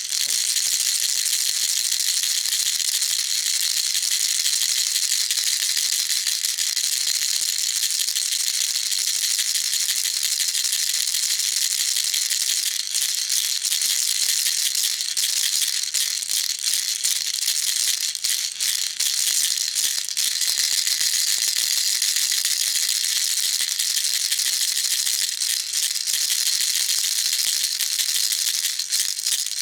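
Baby rattle shaken without a break: a dense, steady high-pitched rattling of small beads inside a toy.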